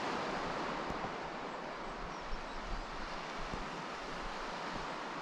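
Sea surf washing steadily onto the shore, with a light wind.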